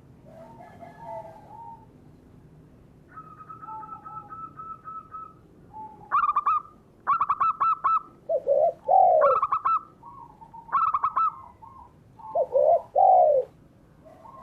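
Doves calling: rapid series of short, clipped cooing notes typical of a zebra dove (perkutut), with low arching coos of a spotted dove (derkuku) about eight and twelve seconds in.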